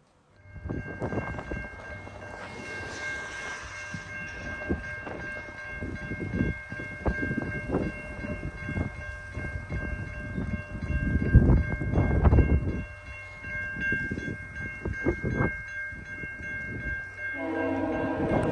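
VIA Rail passenger train led by F40PH-2 locomotive 6451 approaching, rumbling and clattering under a steady high ringing. Its multi-note air horn starts sounding about a second before the end.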